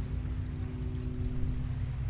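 Quiet ocean surf at low tide, heard as a steady low rumble, with a faint steady hum over it that fades near the end and a few small high chirps.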